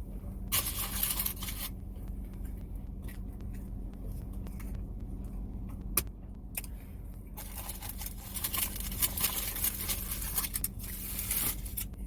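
Close-up eating sounds of a smoked brisket wrap: crackly chewing and wrapper rustling in two stretches, one near the start and a longer one in the second half, with a sharp click about halfway. A steady low hum runs underneath.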